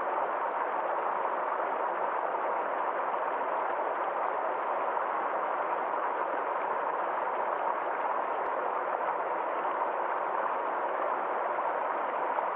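Small forest stream flowing with a steady, unbroken rush of water.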